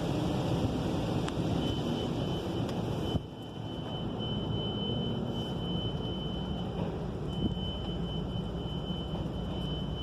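Car wash underbody spray hissing against the car's underside, cutting off suddenly about three seconds in. After that a steady low rumble carries on, with a thin high tone that comes and goes.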